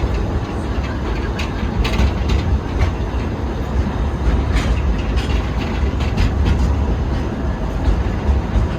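Forest-railway train running along the track, heard from on board: a steady low rumble with scattered, uneven clicks and clacks from the wheels on the rail.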